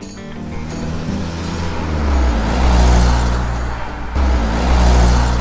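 A deep vehicle engine rumble that swells and fades twice, like vehicles passing by, over background music.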